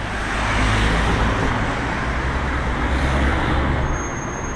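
A road vehicle passing close by on a wet road, its tyres hissing over a low rumble. It is loudest around the middle and fades near the end.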